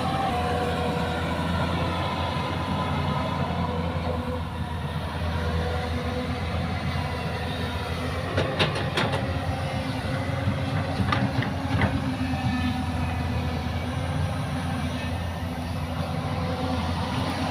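Heavy diesel engine running steadily, with a few sharp metallic knocks about halfway through.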